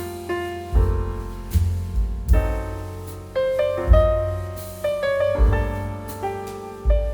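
Piano music: chords and deep bass notes struck about once a second, each note fading away before the next.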